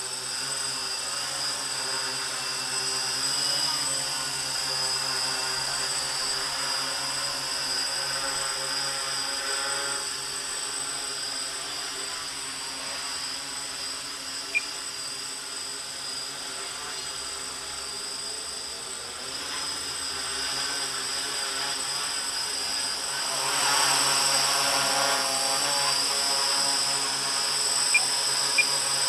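X666 quadcopter's electric motors and propellers buzzing steadily in flight, with a pitched whine that shifts as the throttle is trimmed. It gets louder about 24 seconds in as the drone comes back close, and there are a few short clicks, one midway and two near the end.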